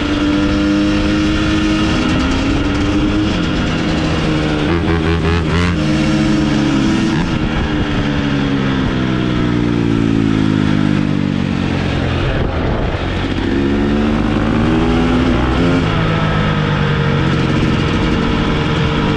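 Dirt bike engine running under load, its pitch rising and falling over and over as the throttle opens and closes and the gears change.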